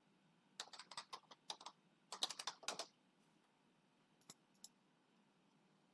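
Faint typing on a computer keyboard: two quick runs of key clicks, then two single clicks a few seconds later.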